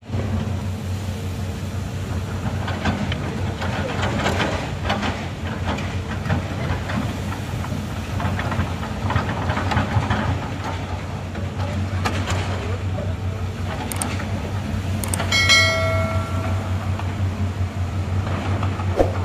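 Excavator's diesel engine running steadily under load, with irregular metallic clanking from the tracks and arm. A short high-pitched tone sounds for about a second roughly three-quarters of the way through.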